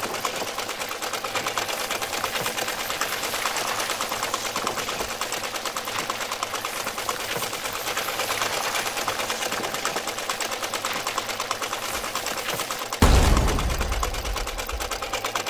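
Small electric gear motor of a model tractor running steadily under load, a fast rattling buzz of gear teeth, as it drags a toothed harrow through sand. About thirteen seconds in, a sudden low thump and rumble cuts in and slowly fades.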